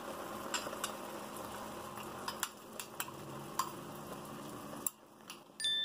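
Mushrooms and bell peppers sizzling in a pan as a cornstarch-and-water slurry is spooned in, with a metal spoon clinking against the pan and the glass bowl several times. The sizzle cuts off abruptly near the end.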